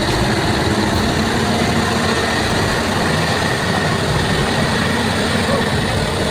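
Heavy truck engine running steadily under load, a loud continuous roar.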